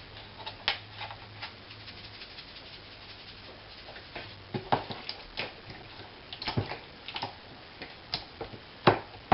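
Hands sprinkling Sazón Goya seasoning from its packet onto raw chicken pieces: scattered light taps and crinkles of the packet and of the chicken being handled, with a quick cluster of taps about two-thirds of the way in.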